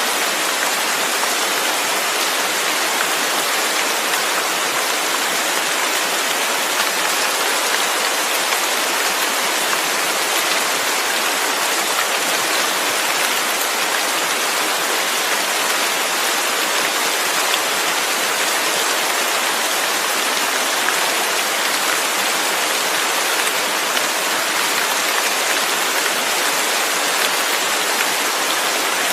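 Steady, even rain falling, a dense hiss with no thunder or separate drops standing out.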